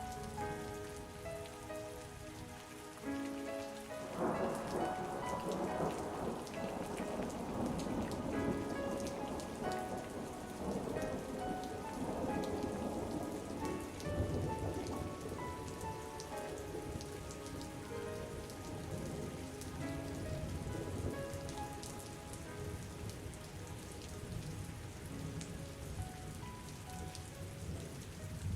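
Steady rain with soft melodic music over it; about four seconds in a long rumble of thunder rolls in and slowly fades.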